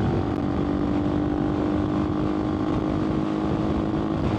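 AJP PR7's single-cylinder engine running under way at a steady pitch, with wind rushing past the microphone.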